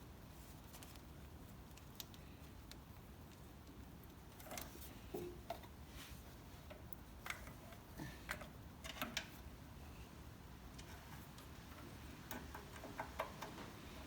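Faint, scattered light clicks and taps as the throttle cable and its metal fittings are handled and fed back into the tractor, over a low steady hum.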